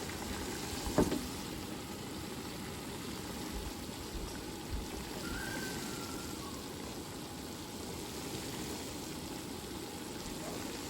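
Steady, water-like hiss, with a short sound falling in pitch about a second in.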